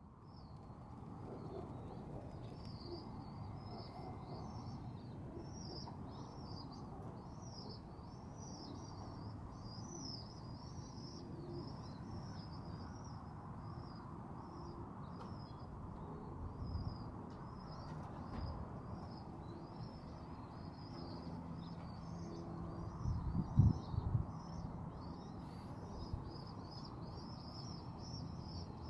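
Small birds chirping in a steady stream of quick, high calls, with faint low pigeon cooing underneath and a steady low rumble. A couple of brief thumps come about 23 to 24 seconds in.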